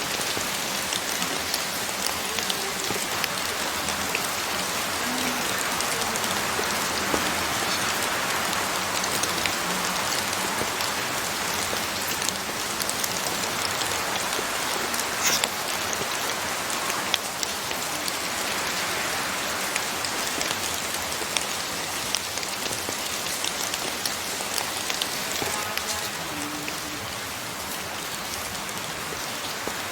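Steady rainfall: an even hiss of rain falling on surfaces and leaves, with one sharp tick about halfway through.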